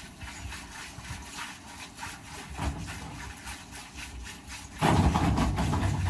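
Boat engine idling with a low rumble, with a much louder rushing noise starting near the end.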